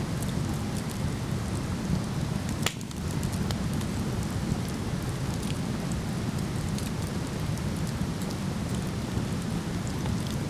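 Steady rush of a waterfall, with a wood fire crackling over it in scattered small pops and one sharp snap about two and a half seconds in.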